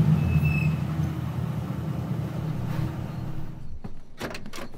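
Car engine running with a deep, steady rumble that fades away after about three and a half seconds, followed by a few short knocks near the end.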